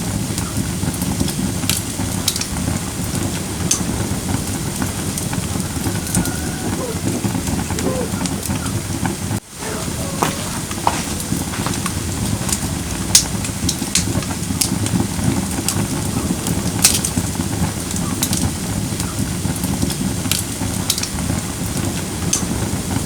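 Firewood burning in a fire bowl: a steady low rush of flames with sharp crackles and pops scattered throughout. The sound drops out for an instant near the middle.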